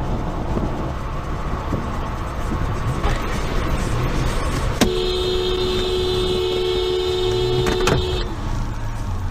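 Steady road and engine noise from a car, with a car horn held for about three seconds starting about five seconds in.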